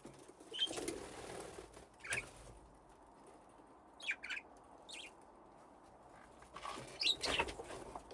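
Budgies flapping their wings as they fly about, with a few short chirps between the flurries. Flurries come about half a second in, around two seconds, and near the end.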